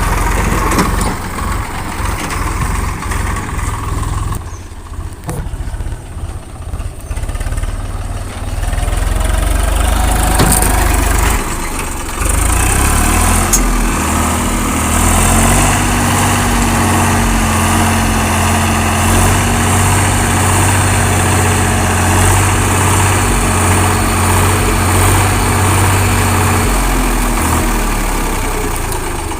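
Diesel tractor engine running. About 13 seconds in it revs up and holds a steady higher pitch, as for working the hydraulics that tip the loaded soil trailer, then drops back near the end.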